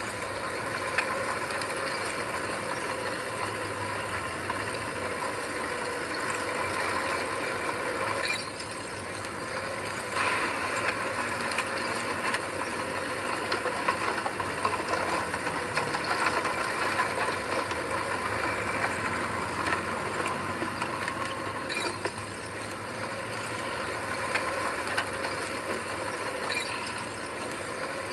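Heavy earthmoving machine's diesel engine running under steady work, with a continuous metallic clatter and rattle over it; the level dips briefly about a third of the way in, then rises again.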